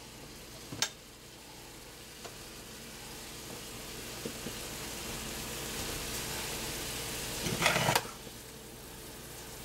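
Ramen noodles, diced pork and vegetables sizzling in sauce liquid in a hot pan, a steady hiss that slowly grows louder. A fork stirs through the noodles, with one brief louder scrape near the end.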